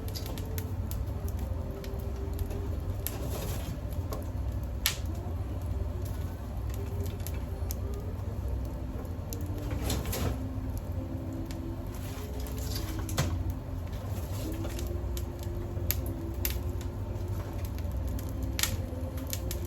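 Wood fire crackling in a wood-fired pizza oven, with irregular sharp pops over a steady low rumble, as the oven's cold stones are first warmed after a break.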